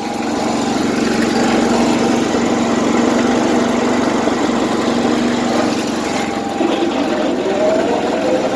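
Snapper riding mower's small engine running steadily, growing louder over the first second. The owner says its governor needs adjusting.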